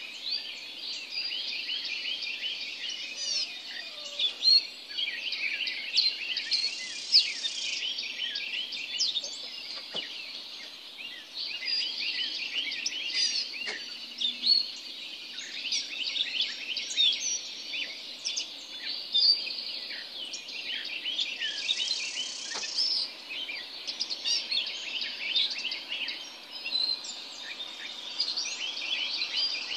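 Dawn chorus: many birds singing at once, a dense run of overlapping high chirps and whistles, with a harsher, noisier call twice, about 7 seconds in and again around 22 seconds.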